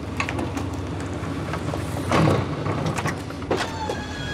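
Delivery truck engine idling, with knocks and clunks of unloading. A steady whine comes in near the end.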